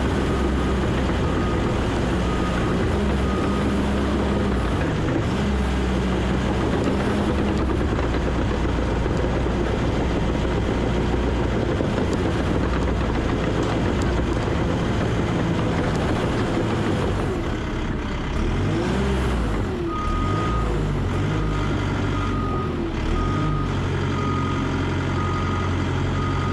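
Heavy earthmoving machine's diesel engine working under load, with a reversing alarm beeping at a steady pace at the start and again for the last several seconds. The engine pitch swings up and down about two-thirds of the way through as the load changes.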